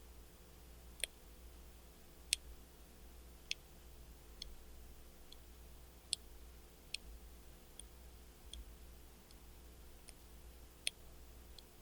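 Hand-poke tattoo needle, an 11-round-liner, going in and out of the skin of a leg: faint, sharp, high clicks at an uneven pace of about one a second.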